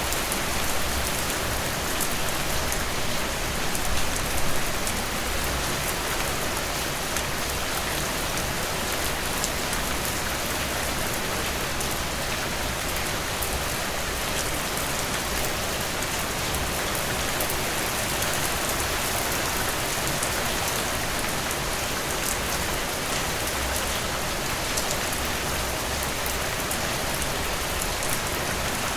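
Heavy rain falling steadily in a dense downpour, a thick even hiss with fine patter of drops on surfaces, swelling slightly a few times in the first seconds.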